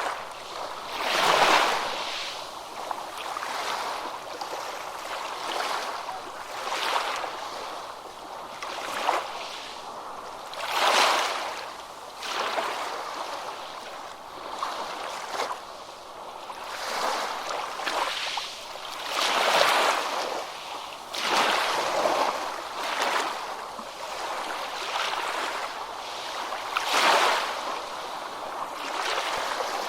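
Ocean waves breaking on a beach, surf swelling and washing back in a steady rolling rhythm. The biggest breaks come near the start, about a third of the way in, about two-thirds in and near the end.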